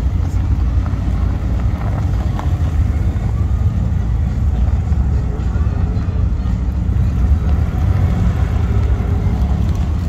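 Cars driving slowly past, their engines running with a steady low rumble.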